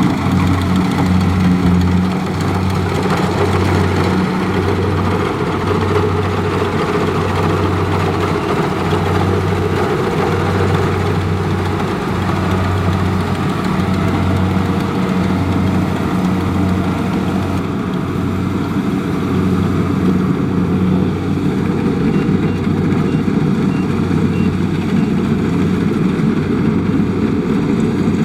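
Kubota DC70 Plus combine harvester's diesel engine running steadily, a loud hum that pulses about once a second over the rattle and hiss of the machine.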